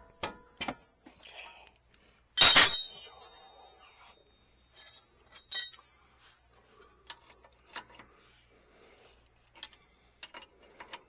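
Metal tools and parts clinking during hand work on a car: one sharp ringing clank about two and a half seconds in, the loudest, then a few lighter clinks and scattered taps.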